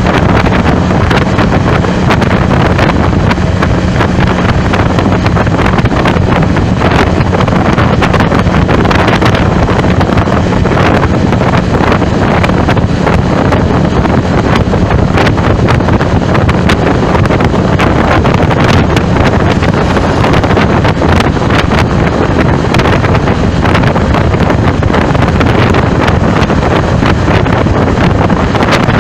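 Loud, steady wind buffeting the microphone, with a low hum underneath.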